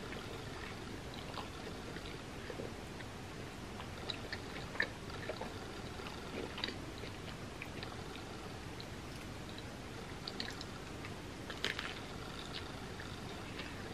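Close-up chewing of a toasted grilled cheese sandwich: soft mouth sounds with small crisp clicks of toasted bread, and a bite with a denser cluster of crunches near the end.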